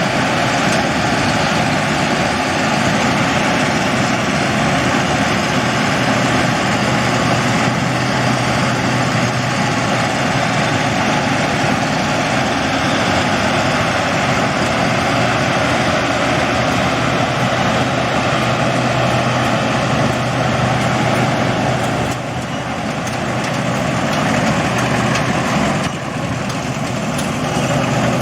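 Combine harvester running steadily under load, a continuous loud mechanical drone with a steady hum.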